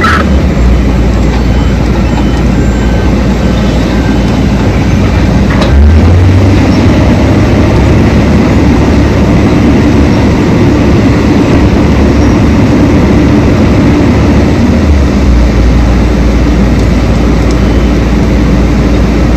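Heavy diesel mining machinery running: a loud, steady low engine drone whose pitch shifts about six seconds in and again near fifteen seconds.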